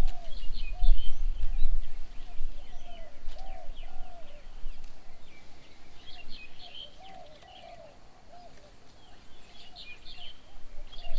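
Garden birds calling: a run of low, arched cooing notes repeated again and again, with bursts of quick high chirps from other birds over it. A low rumble sits under the first two seconds.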